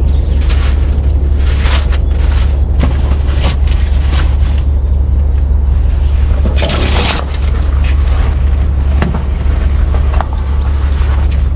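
Heavy rain drumming on a semi-truck's cab, a dense steady patter with irregular louder splats, over a strong, steady low rumble.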